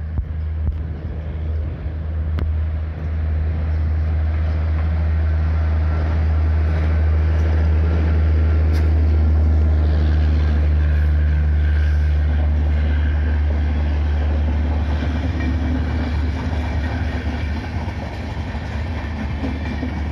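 Indian Railways express train passing close by on electrified track: a steady deep rumble of wheels and coaches on the rails, loudest around the middle and easing off near the end.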